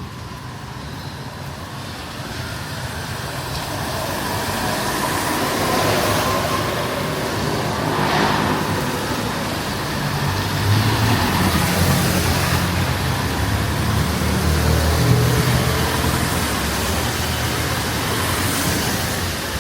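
Street traffic with a motor vehicle's engine running close by, growing louder over the first several seconds and strongest in the second half, over a steady hiss of road noise.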